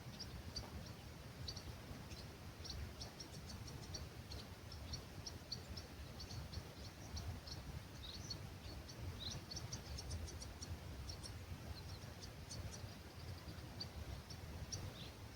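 Small birds chirping and calling at dawn in an olive grove: many short, high chirps with a few quick down-slurred notes, over a low rumble of breeze.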